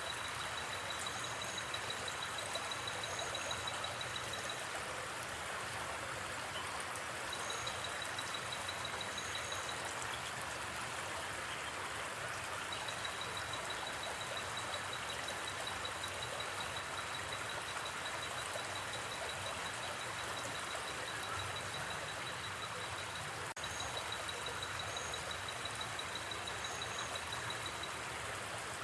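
Steady rushing of a flowing river, with a night insect trilling in long, fast-pulsed, high-pitched stretches and a few higher paired chirps. A single sharp pop from the campfire comes about 23 seconds in.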